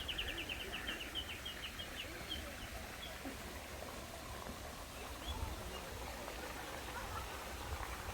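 A songbird calling: a quick run of about a dozen short, high notes, slightly slowing, over the first two seconds or so, then a faint single note later.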